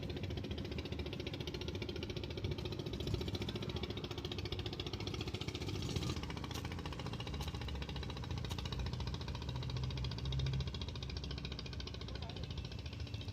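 A small engine running steadily at an even pace, with a fast, regular beat.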